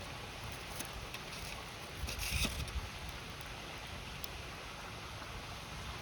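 River flowing steadily alongside a crackling wood fire, with a few sharp pops and a louder burst of rushing noise about two seconds in.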